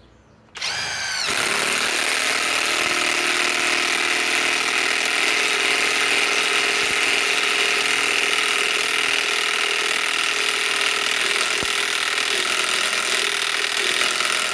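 SKIL PWR CORE 20 mid-torque cordless impact wrench spinning up and then hammering steadily without letup as it drives a long lag screw into wood.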